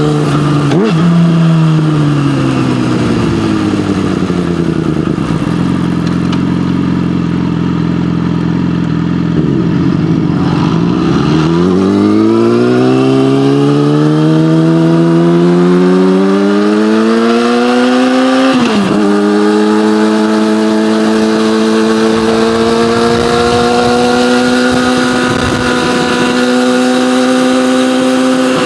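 Yamaha motorcycle with an SC-Project aftermarket exhaust under way. The engine note falls as the rider eases off and runs low for a few seconds, then climbs steadily under acceleration. About two-thirds of the way in, a sudden drop in pitch marks an upshift, and the bike then holds a steady cruise with the pitch rising slowly.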